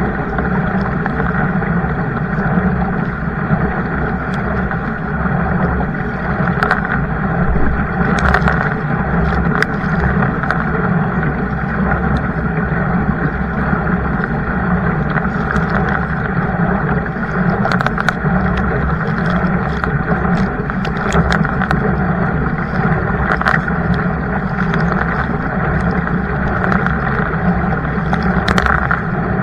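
Kayak underway on open water: a steady rush of water and wind noise, broken by scattered small sharp ticks and knocks.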